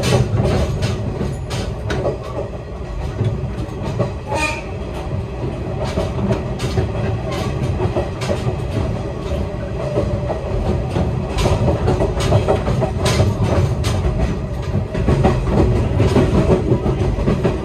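Diesel train cars running, with a steady low rumble and repeated sharp clicks of the wheels over rail joints, heard up close at the gap between two cars.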